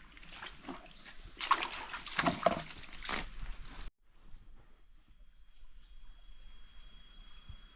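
Water splashing and sloshing in a quick irregular cluster, loudest about halfway through. It stops at a sudden cut, after which high steady insect chirring runs on.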